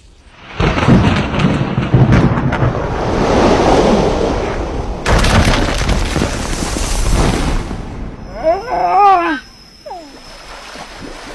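Loud, dense rumbling noise for several seconds, starting fresh about halfway through. Near the end comes a short pitched animal call that wavers up and down.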